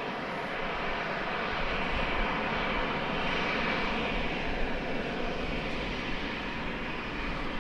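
Boeing 737 jet engines during a landing, a steady rush that swells about halfway through and then falls in pitch as the airliner passes and moves away down the runway.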